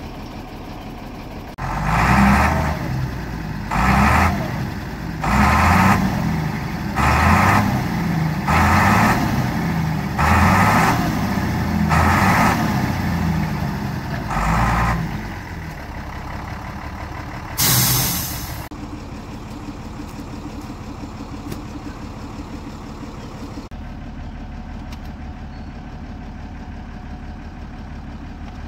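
A vehicle engine revved in about eight rhythmic surges, roughly one every second and a half, each rising in pitch with a burst of rushing noise. It then settles back to a steady idle, with a short loud hiss a few seconds later.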